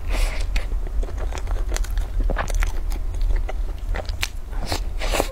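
Close-miked eating: a person biting and chewing food, with irregular crunches and small clicks, over a constant low hum.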